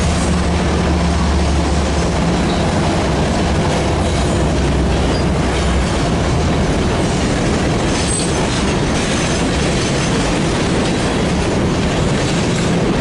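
Freight train passing close by: a loud, steady rumble and rattle of wheels and cars. A low locomotive engine drone underneath fades out about halfway through.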